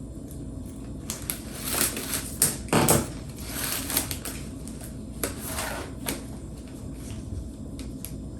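Plastic (synthetic) cane strand scraping and rustling as it is pulled and threaded through the woven seat of a cane chair, in irregular bursts.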